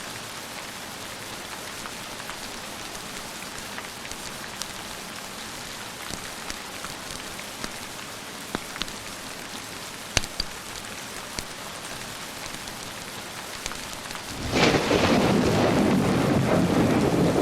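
Steady rain falling, with scattered sharp clicks. About fourteen seconds in, a loud clap of thunder breaks and goes on rumbling.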